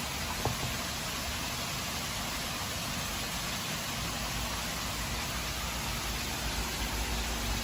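Beef steak sizzling in a frying pan, a steady hiss with one sharp pop about half a second in. A low rumble builds up in the second half.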